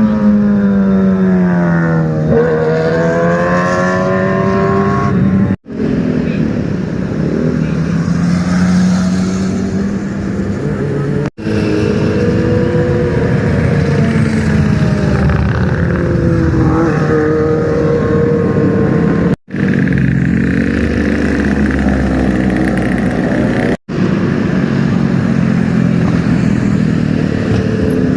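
Sport motorcycle engines revving and running past, their pitch falling and rising, in a string of short clips broken by four sudden cuts.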